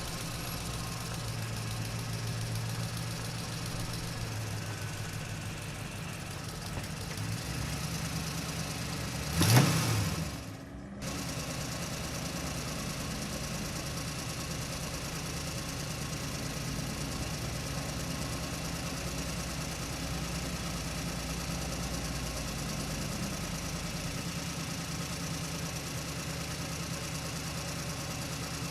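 Truck engine running steadily at a low pitch, its note shifting a few seconds in. About a third of the way through, a short loud burst with a swooping pitch rises over it and cuts off abruptly.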